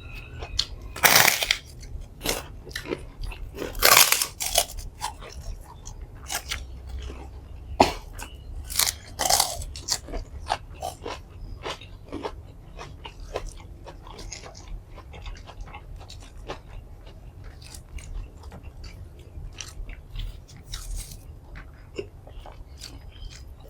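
Close-miked eating: a person chewing and biting into crunchy food, with loud, sharp crunches through the first ten seconds or so, easing to softer, sparser chewing later.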